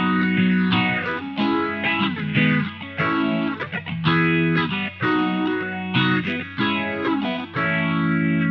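Electric guitar played through an Electro-Harmonix LPB-1 booster pedal: a run of strummed chords, each left to ring briefly before the next, over a steady low hum.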